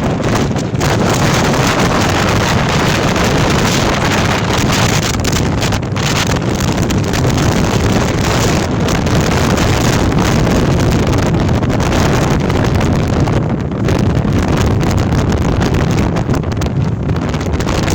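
Storm-force wind buffeting the microphone: loud, continuous rumbling wind noise without a break.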